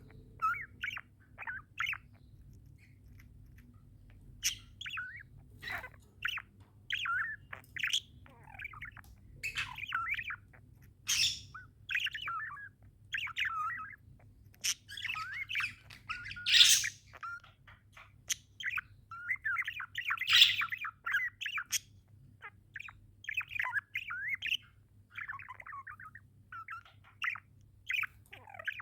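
Pet budgerigars chirping and chattering in short, irregular bursts, with a few louder squawks.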